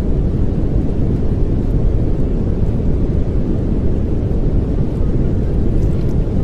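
Steady pink noise: an unbroken, even hiss, deepest and strongest in the low end.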